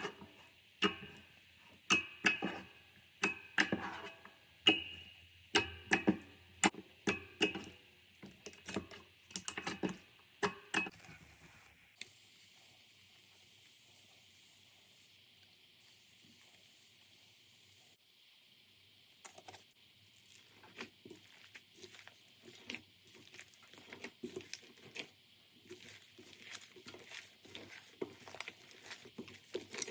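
Slime being squeezed and poked by hand, with sharp clicks and pops as air pockets burst, roughly one or two a second. About halfway there is a quiet pause of several seconds, after which softer, quicker crackles follow.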